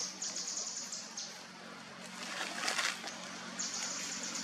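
High-pitched insect buzzing in repeated bursts of about a second each, over a faint steady low hum, with a short patch of rustling noise midway.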